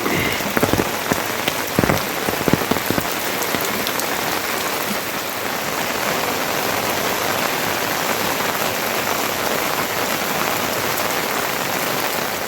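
Heavy rain falling steadily, with a few sharper drop impacts in the first few seconds.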